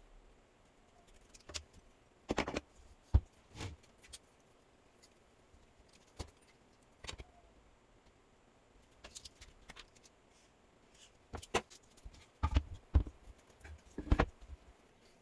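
Scattered sharp clicks and knocks of hard objects being handled, coming singly and in small clusters with quiet gaps between; the sharpest knocks fall about three seconds in and twice near the end.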